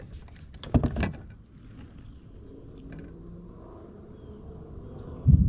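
A few sharp knocks and taps in the first second, then a loud low rumble that starts suddenly near the end.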